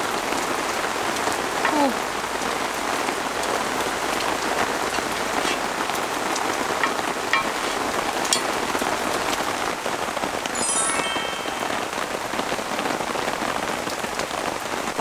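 Steady heavy rain falling on a camping tarp, with scattered sharp drop ticks. About ten seconds in there is a brief metallic ringing clink.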